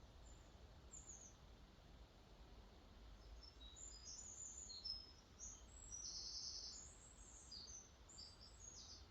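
Faint songbirds singing: many short, high-pitched chirps and a brief trill, busiest in the second half, over a low, steady rumble.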